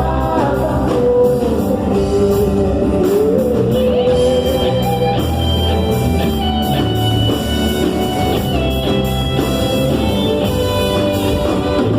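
Worship band music with guitar and drum kit: a steady beat under a gliding melody line, joined by higher melodic notes about a third of the way in.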